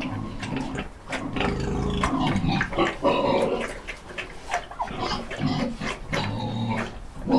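An animal calling in a run of short, uneven calls with a low rumble beneath them.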